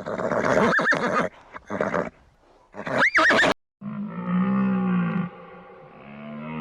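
Horse neighing and blowing, with a high, wavering whinny about three seconds in; then, after an abrupt cut, a different large animal gives two long, low calls.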